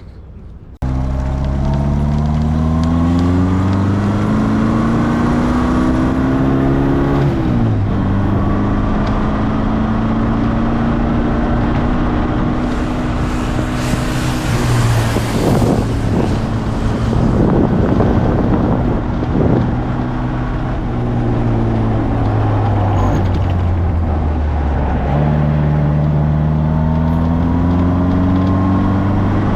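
Morgan sports car's engine heard onboard on a fast sprint lap, starting suddenly about a second in: it revs up, drops sharply at a gear change, holds on the throttle, then pulls and rises in pitch again near the end. A rush of hissing noise swells over the engine about halfway through.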